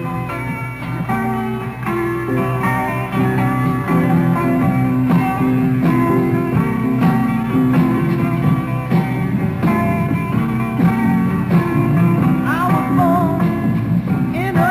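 Live 1960s rock band playing: guitars and bass in an instrumental passage, with singing coming in near the end.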